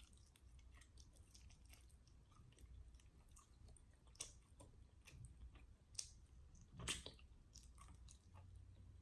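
Faint chewing and mouth sounds of someone eating, broken by a few sharper little crunches and clicks, the loudest about seven seconds in.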